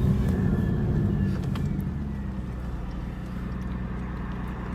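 Straight-piped Nissan 300ZX's V6 exhaust, with the stock catalytic converters still fitted. It eases off from a rev over the first couple of seconds, then settles into a steady low drone.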